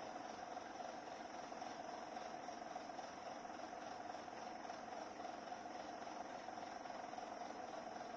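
Concrete mixer truck running steadily, a constant even hum with no changes.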